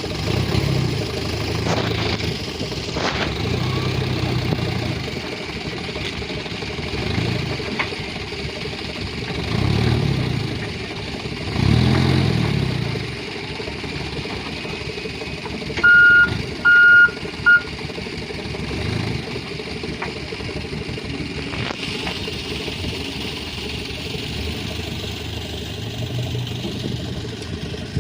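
Diesel dump truck engine running and revving up and down in repeated swells. About two-thirds of the way through come three short, high beeps in quick succession, like a reversing or warning beeper.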